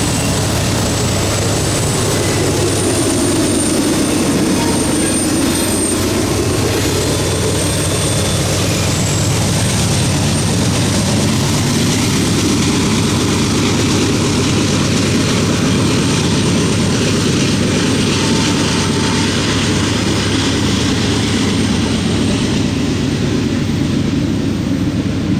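Diesel helper locomotive pushing at the rear of a long CSX intermodal train, passing with a loud, steady engine drone.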